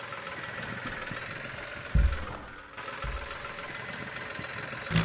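Tractor engine running steadily, with two short low thumps about two and three seconds in.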